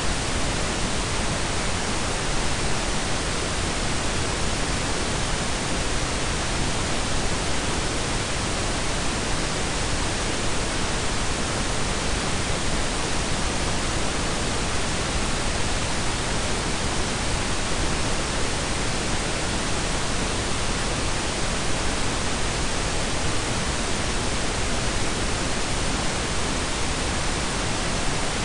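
Synthetic pink and brown noise blended together: a steady, even hiss with a deep rumble beneath it, unchanging throughout.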